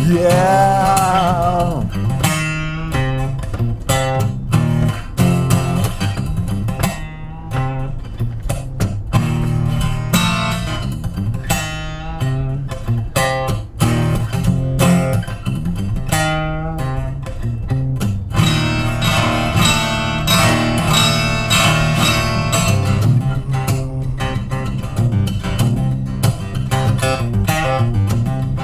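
Instrumental guitar break in a live song: picked notes and chords on guitar, opening on a held, wavering sung "yeah", with a fuller, brighter stretch of playing about two-thirds through.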